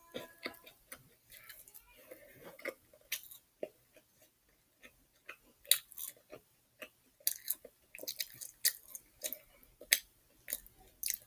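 A person chewing a fried chicken sandwich close to the microphone, with irregular crisp crunches and wet mouth clicks that come thicker in the second half.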